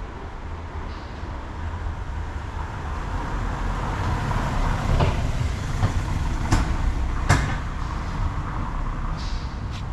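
Steady low rumble of a vehicle engine or road traffic, growing a little louder toward the middle, with two sharp clicks about six and a half and seven seconds in.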